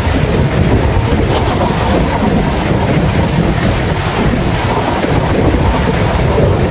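Steady rain with a continuous low rumble of thunder underneath.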